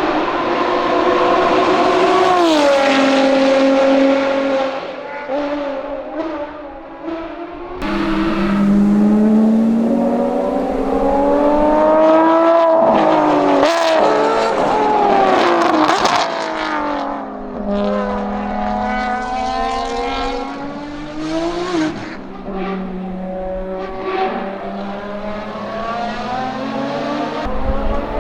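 Ferrari FXX K Evo's V12 at high revs, accelerating and changing gear, its pitch climbing and then dropping several times. A burst of sharp cracks comes around the middle.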